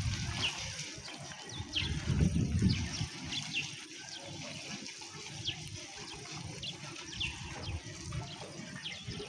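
Outdoor ambience: short, high chirps of a bird, repeated every second or so, over an uneven low rumble that swells around two to three seconds in.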